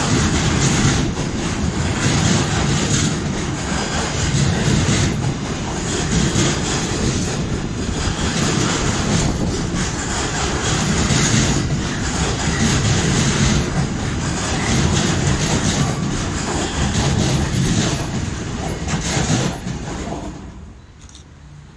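Container freight train rolling past: a steady rumble and clatter of wagon wheels on the rails, swelling and easing as the wagons go by. Near the end the last wagon passes and the noise falls away quickly.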